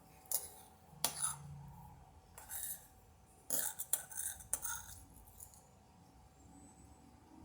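Apple pieces being dropped into a cup: a run of short light knocks and clinks, about half a dozen in the first five seconds.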